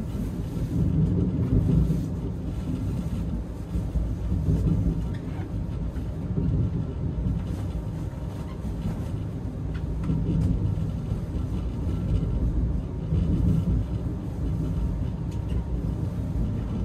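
Sleeper carriage of a moving passenger train, heard from inside: a steady low rumble that swells and eases.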